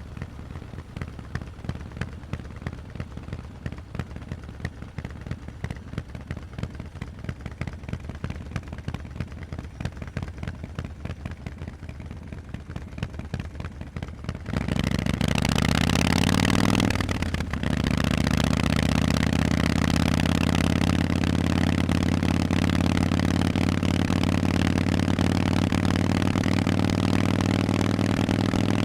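Harley-Davidson Forty-Eight's air-cooled 1200 cc V-twin through Vance & Hines exhausts. For most of the first half it runs low with an uneven, lumpy pulse. About halfway through it revs up in a rising note, dips briefly, then holds a steady, louder drone.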